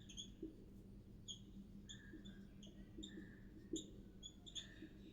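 Faint, short, high chirps repeating irregularly, a few a second, like a small bird chirping in the background, over a low steady hum.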